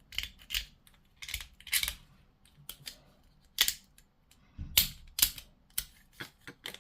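Hard plastic model-kit parts being handled and pressed together: irregular sharp clicks and short scrapes of plastic on plastic.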